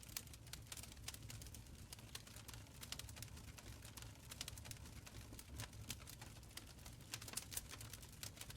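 Wood fire crackling in a stone fireplace: irregular sharp pops and snaps over a low, steady rumble of burning.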